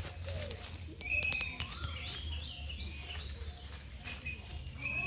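Birds chirping, a repeated phrase of short high notes and rising whistles, over a steady low hum.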